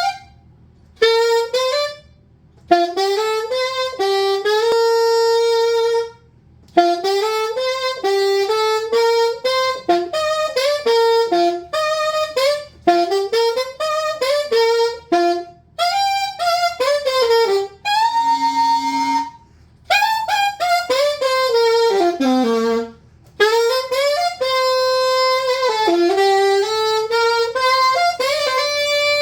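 Rivera SuperBell20 saxophone played solo with no accompaniment: melodic phrases of quick runs and longer held notes, broken by several short pauses.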